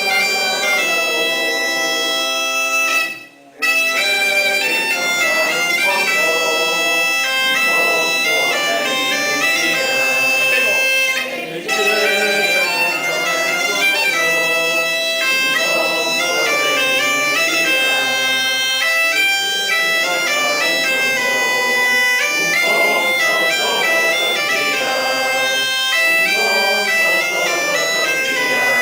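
Galician bagpipe (gaita) playing a lively tune over its steady drone. It breaks off for a moment about three seconds in.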